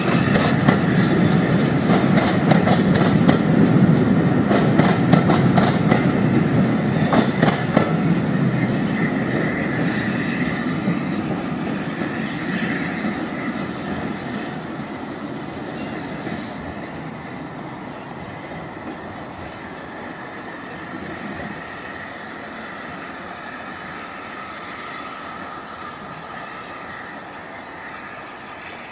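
Passenger coaches of a train rolling away over the track, wheels clicking rapidly over rail joints and pointwork with some wheel squeal. The rumble and clatter fade steadily as the train draws away.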